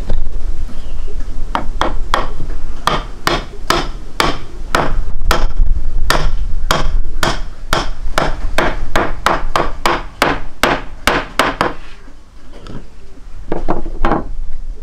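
A quick, fairly even run of sharp knocks like hammer blows, about three a second, that stops about twelve seconds in, followed by two more knocks near the end, over a steady low rumble.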